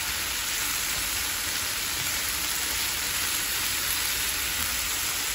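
Halved Brussels sprouts sizzling steadily in hot oil in a frying pan while a silicone spatula stirs them.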